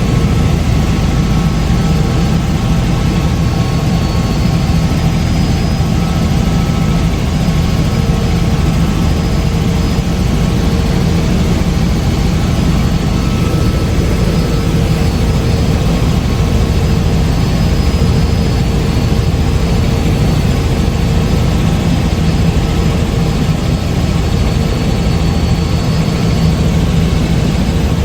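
Helicopter in flight: a steady, loud engine and rotor drone, a low rumble with a few constant whining tones over it.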